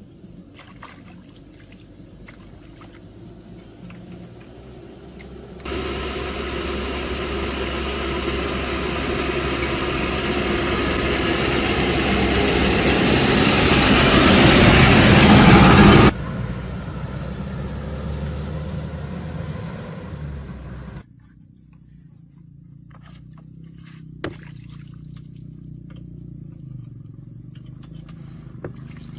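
An engine running in abruptly cut segments. A low hum is followed by a loud stretch that grows steadily louder for about ten seconds and stops suddenly, then a quieter run and a low hum.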